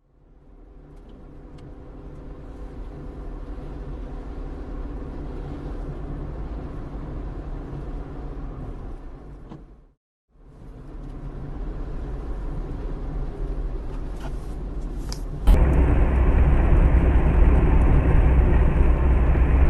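A car's engine and road noise recorded from inside the car while driving. The sound cuts out briefly about halfway through, then steps up suddenly and sharply in loudness near the end.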